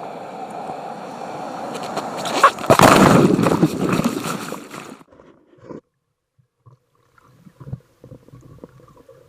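Water splashing and sloshing at the surface, loudest about three seconds in, then cutting off abruptly as the camera goes under. It is followed by faint, scattered underwater knocks and bubbles.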